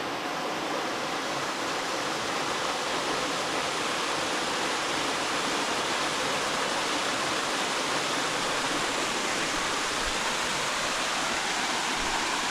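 Small waterfall rushing steadily: a constant roar of falling water.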